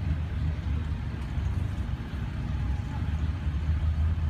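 Steady low engine drone of a vehicle driving slowly, heard from on board.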